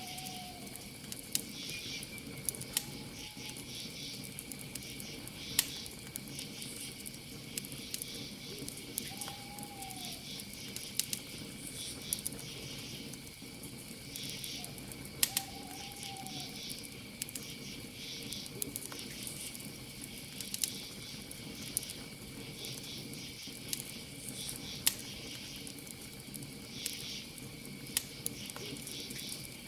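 Campfire crackling with frequent sharp pops, over crickets and other night insects chirping in a steady high trill with pulsing bursts. An owl gives four short hoots that rise and fall, spread over the first half.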